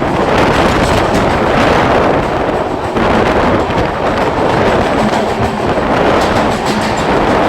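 Indian Railways passenger train running at speed through a tunnel: a loud, steady rumble and rattle of wheels on the track, echoing off the tunnel walls.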